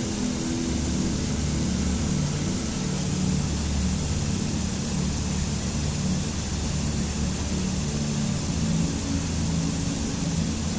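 Steady rushing water, with a soft ambient music drone of low held notes that slowly change pitch underneath.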